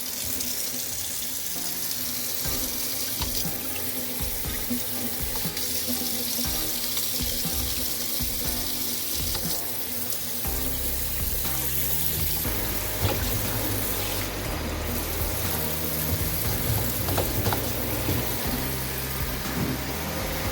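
Water running steadily from a newly hooked-up tap into a sink, a constant rushing hiss. Background music plays under it and picks up a bass line about halfway through.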